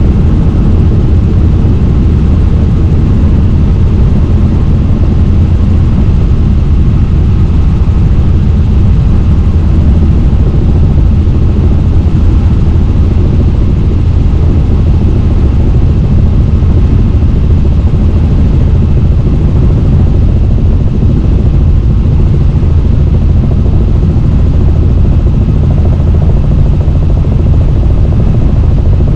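Helicopter in flight: a loud, steady drone of rotor and engine with a deep low hum that does not change.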